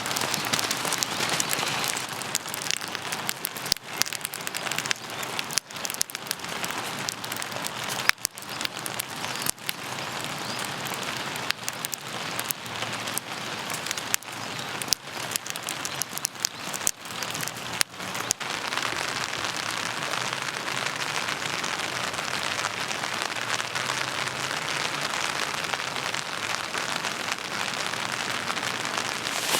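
Rain falling steadily, with many sharp, separate drop hits for the first two-thirds, then settling into an even hiss.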